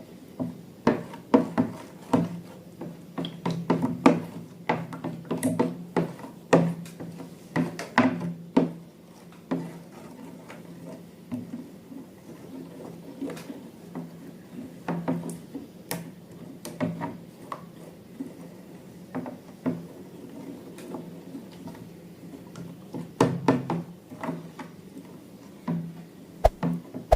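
Irregular light taps and knocks of objects being handled, some louder than others, over a steady low hum.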